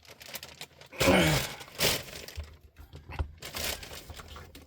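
Rummaging through tools and tool kits: irregular rustling and crinkling with a few sharp knocks, loudest about a second in.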